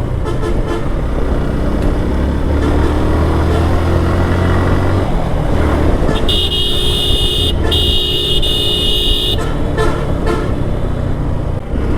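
Motorcycle engine running, its pitch rising as it revs up, then a high-pitched vehicle horn honking in two long blasts about six seconds in, while riding behind a bus to overtake it.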